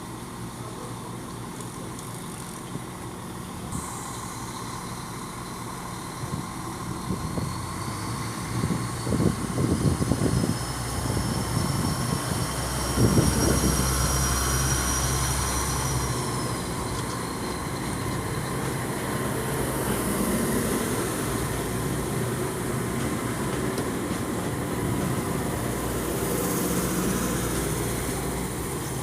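Diesel light-rail train (VLT) running, its engine hum steady and growing louder about a third of the way in, with a few knocks. A thin high whine rises slightly through the middle and then falls away.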